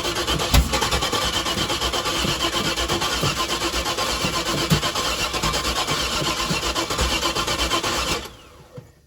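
Starter cranking a small-block Chevy 400 V8 with a new Holley carburettor, in fast even strokes for about eight seconds without the engine catching, then cutting off abruptly and winding down.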